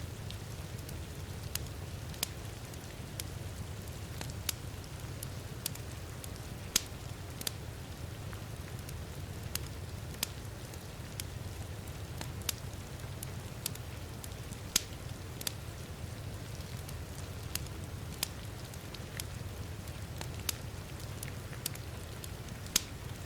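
Fireplace crackling, with sharp irregular pops, over the steady hiss of heavy rain and a low rumble.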